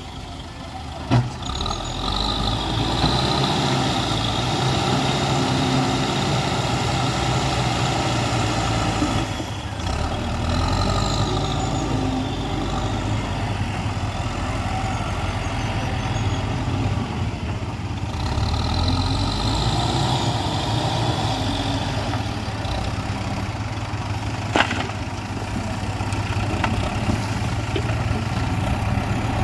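Diesel engine of an earthmoving machine running steadily while it works, with a sharp knock about a second in and another near the end.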